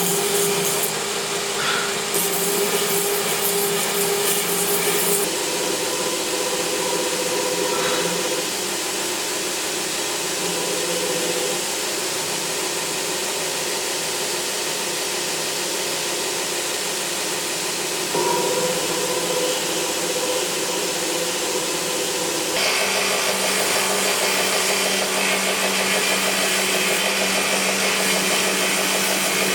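Electric power tool running steadily with a motor hum, its pitch shifting a little with load, such as a grinder or sander working the blade or handle. The sound changes abruptly about five seconds in and again near the end.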